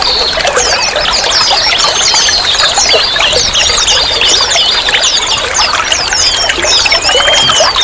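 Running, trickling water with many small songbirds chirping over it in quick, overlapping calls.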